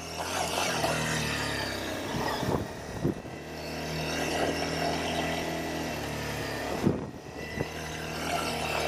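Honda CBR250R's single-cylinder engine running at low speed with a steady note, heard from the rider's helmet camera. The note drops away briefly twice, with short knocks about three and seven seconds in.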